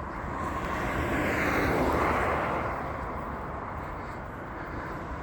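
Engine noise of a passing vehicle, swelling to a peak about two seconds in and then fading away.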